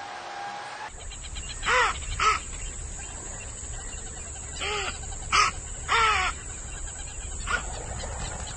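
A bird giving about six short, harsh calls in small groups, with pauses between them.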